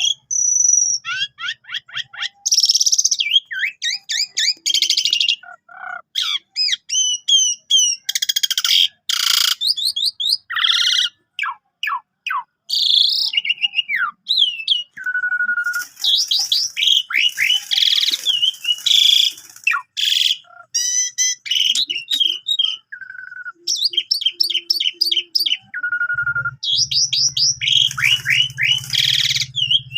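Asian pied starling (jalak suren) singing a fast, varied chattering song. It mixes rapid whistles, rising and falling glides, trills and harsh rasping notes, the song packed with mimicked phrases ('isian').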